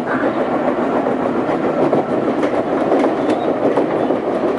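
Odakyu 2000 series electric train running along the track, with repeated knocks from the wheels over the steady rail noise: the pounding of a wheel flat, a flat spot worn on a wheel tread.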